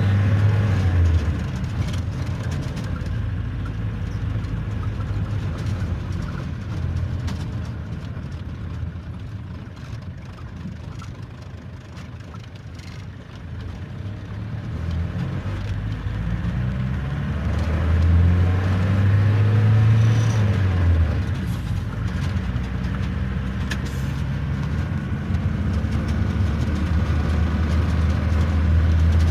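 Car engine running while driving along a road, with road noise; the engine grows louder and climbs in pitch about two-thirds of the way through, then drops back.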